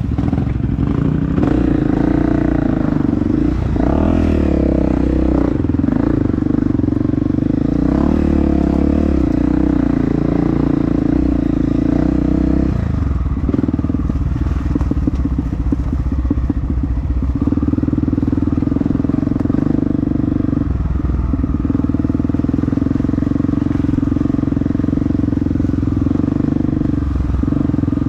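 Dirt bike engine running hard and steady under load, with a few brief dips in pitch and level where the throttle is eased off.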